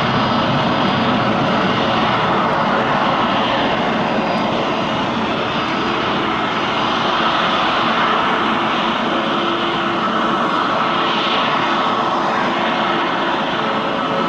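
J-AIR regional jet's turbofan engines at takeoff power: a loud, steady rush of jet noise with a steady whine over it.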